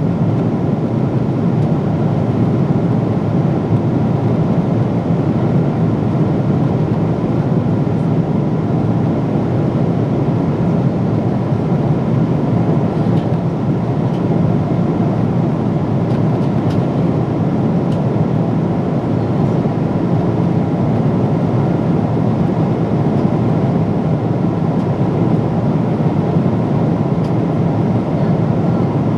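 Boeing 777-300 airliner cabin noise in flight: a constant, even rush of airflow and engine drone with no change in level.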